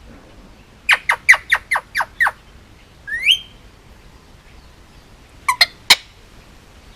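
Indian ringneck parakeet calling: a quick run of about seven shrill squawks about a second in, a single rising whistled call around three seconds, then three short sharp squawks near the end.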